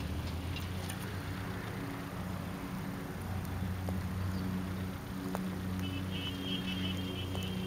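Honda S2000's four-cylinder engine running at low, steady revs as the car drives slowly along the track.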